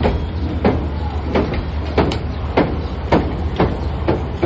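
A passenger train moving slowly out of the station: a steady low rumble with regular sharp knocks about twice a second.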